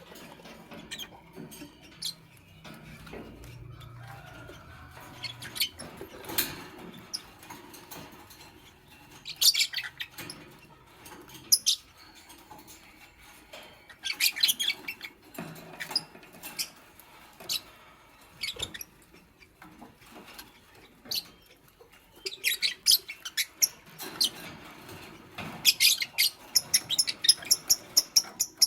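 Fischer's lovebirds chirping in short bursts of rapid, high-pitched squeaky calls, the densest run near the end. Between bursts there is soft rustling and scratching.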